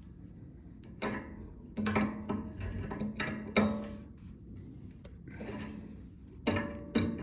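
Tools working on a metal pipe fitting: a series of sharp clicks and scrapes, with a short rasping stretch near the end.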